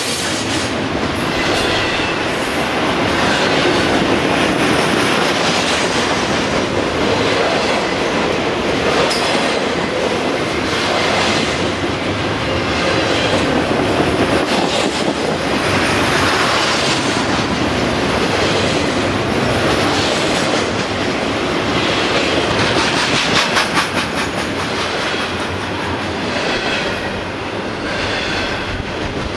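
BNSF freight train's cars rolling past, wheels clacking over the rail joints, with a thin wheel squeal at times.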